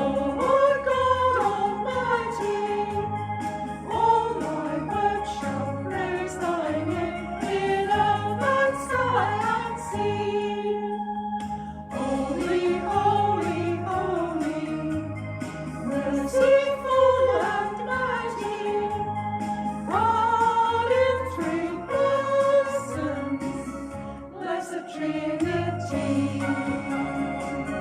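A group of voices singing a hymn over an instrumental accompaniment with a steady bass line, pausing briefly between phrases.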